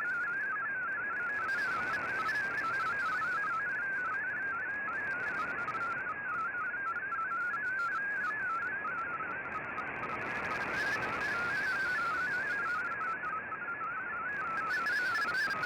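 MFSK digital data signal received on a shortwave radio: a warbling tone hopping quickly between pitches, over a steady band of receiver hiss.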